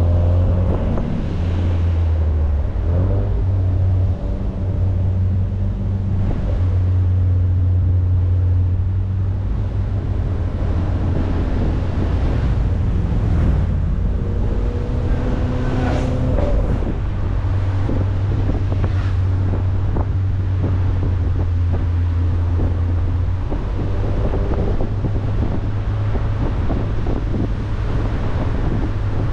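Car engine pulling along a winding road, its pitch rising, falling and stepping as the revs change through shifts, over steady road noise and wind buffeting the microphone.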